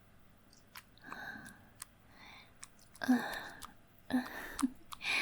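A woman's breathy gasps and heavy exhalations, a few in close succession in the second half, with small mouth clicks between them.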